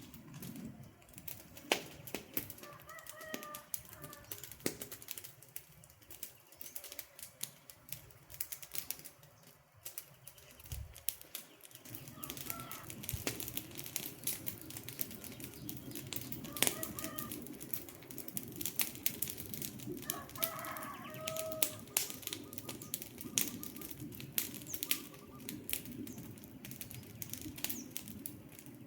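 Wood fire crackling with frequent sharp pops and snaps. Short bird calls come in a few times, the most prominent a little past the two-thirds mark.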